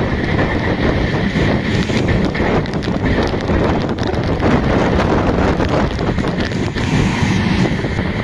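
Janshatabdi Express passenger train running at speed, with wind buffeting the microphone and a steady rush of noise broken by irregular clicks and knocks.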